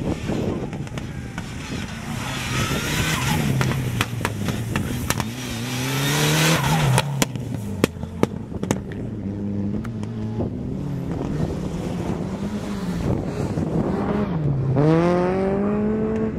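Mitsubishi Lancer Evolution rally car's turbocharged four-cylinder engine revving hard and falling back again and again through the bends of a gymkhana course. A string of sharp cracks comes in the middle, and the revs climb steeply near the end.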